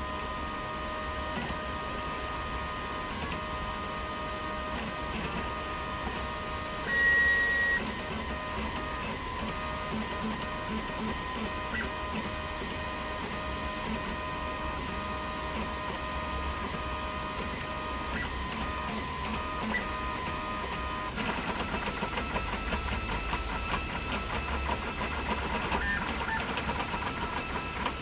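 3D printer running, its stepper motors whining in steady tones that shift in pitch as the moves change. A louder high tone lasts about a second a quarter of the way in, and about three-quarters through the sound turns busier and more rattling.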